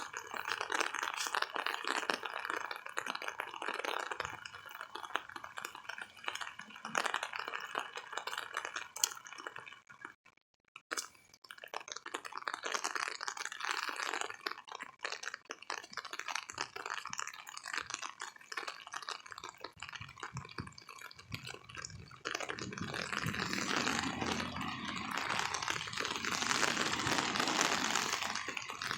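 Heavy rain falling, with a dense crackle of drops striking and dripping close by. The sound cuts out briefly about ten seconds in, and it comes back fuller and louder about 22 seconds in.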